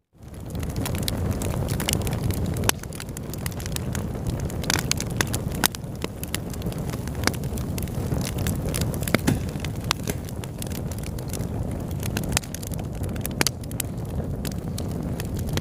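Wood fire burning in a fireplace: a steady low rumble of flames with frequent, irregular crackles and pops. It swells up from silence right at the start.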